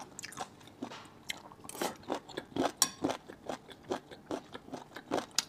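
Close-miked chewing of a crunchy mouthful of spicy, numbing stewed chicken and duck parts: a string of short, crisp crunches, a few a second, loudest a little under halfway through.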